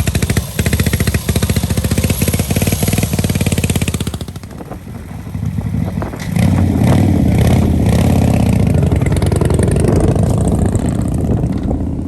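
A large engine running hard with a fast, even pulse, easing off about four seconds in, then revving again louder with its pitch rising and falling from about six seconds on.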